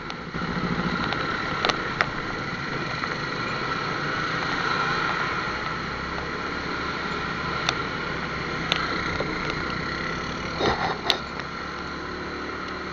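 Motorcycle engine running steadily, with a few short sharp clicks or taps scattered through it.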